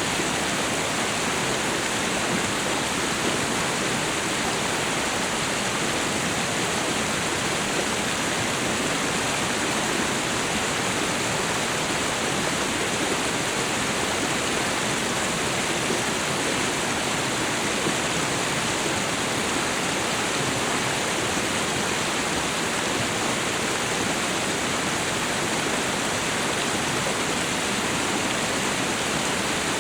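Waterfall and river water rushing in a steady, even hiss without breaks.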